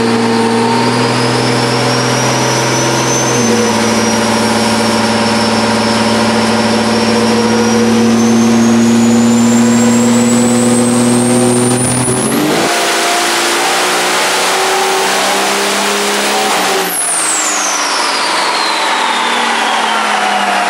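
Drag truck's engine pulling hard under full load, with a high whine that climbs steadily in pitch for about twelve seconds. About two-thirds of the way through, the deep engine note drops away, and the whine then sweeps down in pitch as the pull ends and the engine winds down.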